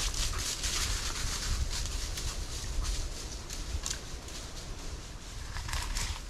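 Irregular crunching and rustling of steps through dry forest litter, heavier near the start and again near the end.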